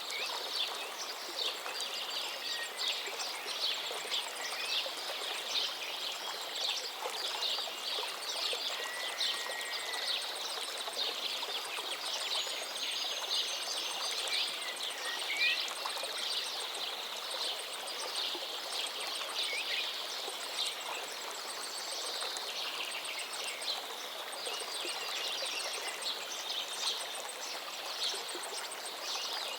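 Forest river flowing steadily, under a dense chorus of songbirds singing rapid chirps and trills, with a few clear whistled notes.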